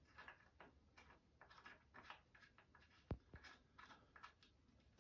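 Near silence with faint scattered small clicks and one sharper click about three seconds in.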